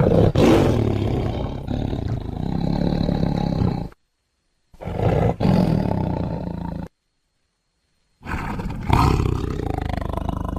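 Indochinese tiger roaring: three rough, low calls separated by abrupt dead silences. The first lasts about four seconds, the second about two, and the third starts about eight seconds in.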